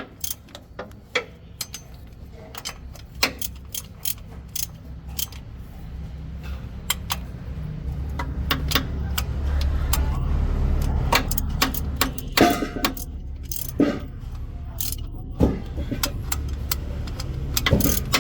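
Metal tools and parts clinking and knocking irregularly during clutch work on a heavy truck, over a low rumble that swells in the middle and then eases off.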